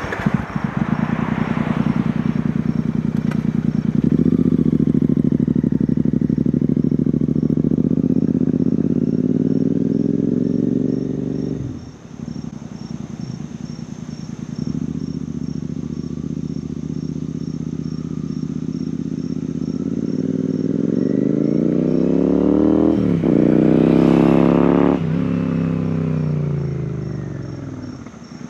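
Royal Enfield Continental GT 650's 648 cc parallel-twin engine, breathing through a Scorpion exhaust with the dB killer baffles removed. It runs loud and steady, dips sharply about twelve seconds in, then climbs in pitch as the bike accelerates. Near the end the pitch falls away as it rides past and fades.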